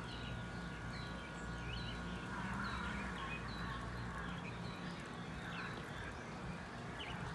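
A bird chirping over and over, short high chirps about once a second, over a steady low hum.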